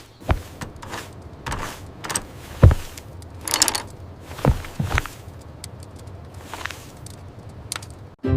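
A string of irregular knocks and thumps with rustling swishes in between, the loudest thump about two and a half seconds in.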